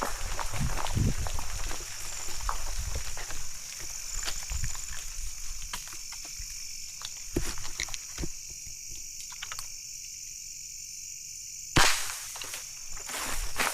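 Footsteps and rustling through vegetation, then a hush over a steady high-pitched trill of night insects, broken near the end by a single sharp gunshot at a bird, the loudest sound.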